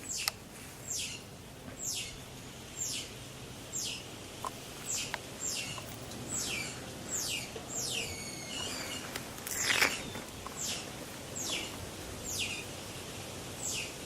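A bird calling over and over: short, high chirps, each sliding quickly downward in pitch, close to two a second, with a brief louder rustle about ten seconds in.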